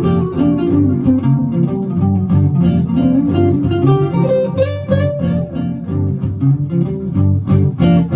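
1953 Gibson ES-125 hollow-body electric guitar playing a blues tune, with picked notes over a steady, rhythmic run of low bass notes.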